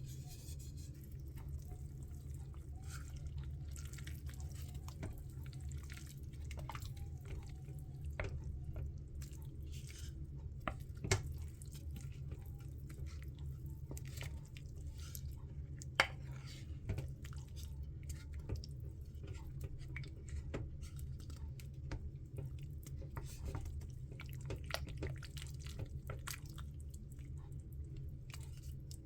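Faint scattered clicks and small taps over a steady low hum, with two sharper knocks about 11 and 16 seconds in.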